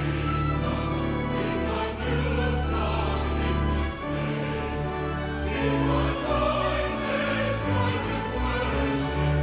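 Choir singing with an orchestra, over held low notes that change every second or two.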